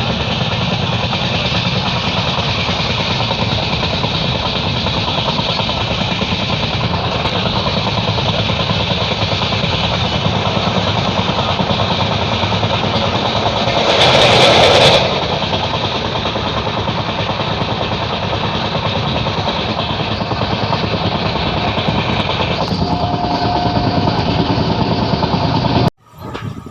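Steady running noise of a moving passenger train, heard from inside the coach: a low rumble of wheels on the rails with a wide rushing hiss over it. About halfway through, a louder rush of noise lasts about a second. The sound cuts off suddenly near the end.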